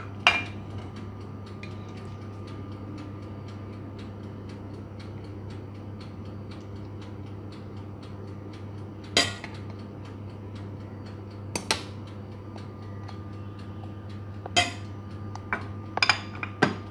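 Cutlery clinking against a dish: scattered single sharp clinks, with several close together near the end, over a steady low hum.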